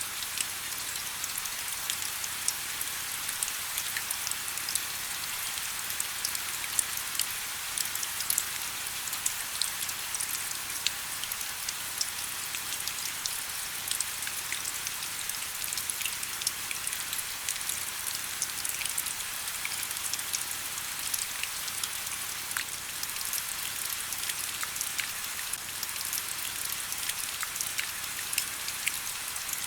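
Steady rain falling, with many small drops pattering and tapping on surfaces.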